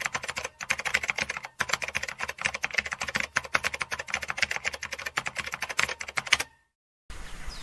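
Computer keyboard typing sound effect: a rapid, uneven run of keystroke clicks that stops about six and a half seconds in.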